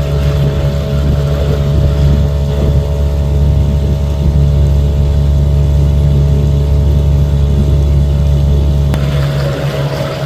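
Small outboard motor on an inflatable tender running steadily under way, a low engine drone with a steady hum above it. About nine seconds in the low drone abruptly weakens.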